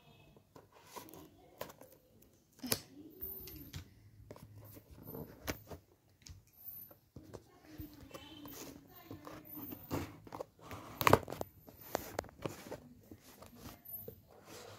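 RC car packaging being handled and opened: irregular rustling and tearing with scattered sharp clicks and knocks, one louder click about eleven seconds in.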